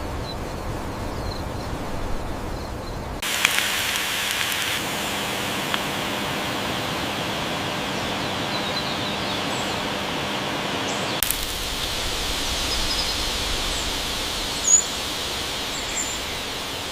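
Steady outdoor ambient noise whose background changes abruptly twice, about three seconds in and about eleven seconds in, with a few short high chirps and a single sharp click near the end.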